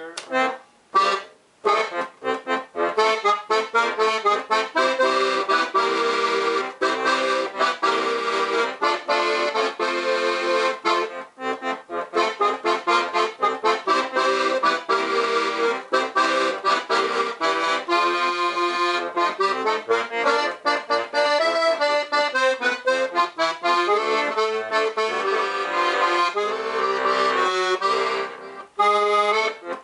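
Weltmeister Monte Nature piano accordion with Helikon bass playing an alpine tune: a melody over a steady rhythm of bass and chords, with short breaks about a second in and near the end.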